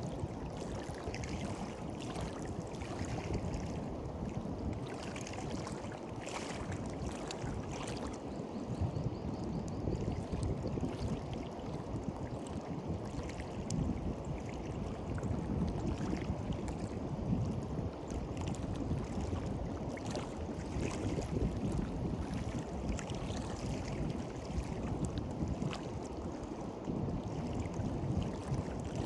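Small sea waves washing and lapping on a beach: a steady low wash with scattered light splashes and fizzing.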